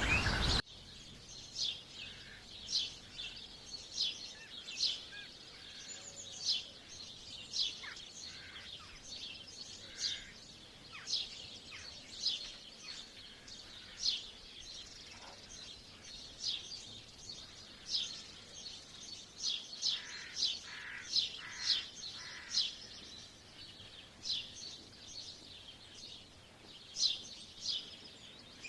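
Birds chirping: short, high calls that each sweep quickly downward, repeated about once or twice a second over a faint outdoor background. A louder sound cuts off suddenly about half a second in.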